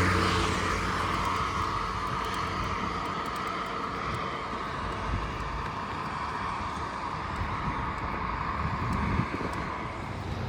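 Road traffic: a vehicle passes at the very start, its sound falling in pitch as it goes by, followed by a steady hiss and rumble of traffic that eases slightly over the next several seconds.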